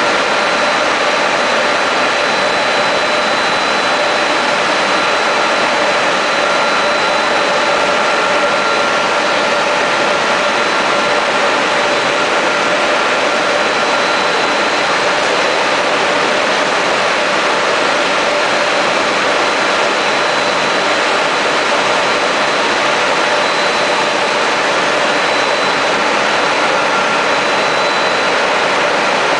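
Automatic car wash machine running: a steady, even rushing noise with a faint constant whine, unchanging throughout.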